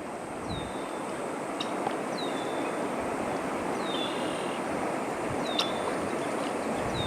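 A bird repeating a short, high call that slides downward, about every one and a half to two seconds, over a steady rushing background noise.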